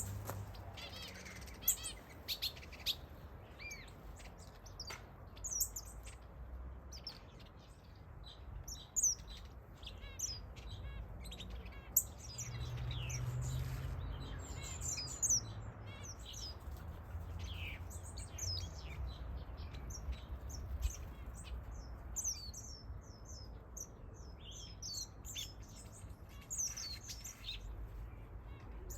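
A mixed flock of small aviary finches chirping and calling, many short, quick calls overlapping throughout, over a faint low rumble.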